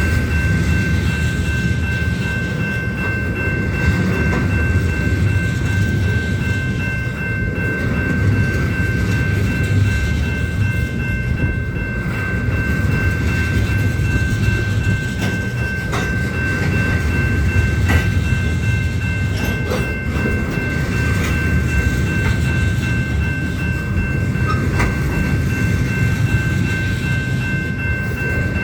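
Union Pacific train rolling past, its cars making a steady, loud rumble with occasional clacks over the rail joints. A steady high ringing tone sounds over it throughout.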